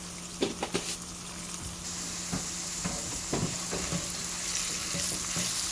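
Onions and diced bell peppers sizzling in hot oil in a pan, the sizzle growing stronger about two seconds in. A spatula stirring them gives several short knocks and scrapes against the pan. A steady low hum runs underneath.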